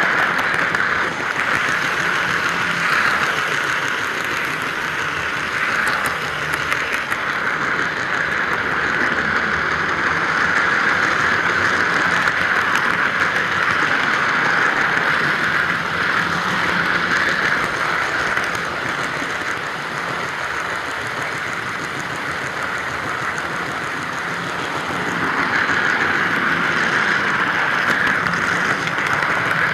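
Model train running along the track of a model railway layout: a steady mechanical rushing noise that eases off for a few seconds past the middle and then comes back up.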